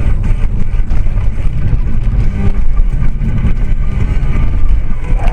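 Vehicle noise, a loud steady low rumble of engine and road.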